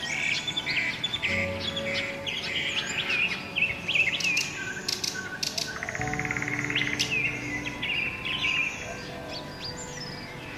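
Several small birds chirping and twittering in quick, overlapping calls, with upward-sweeping notes and a fast buzzy trill about six seconds in, over soft background music with held chords.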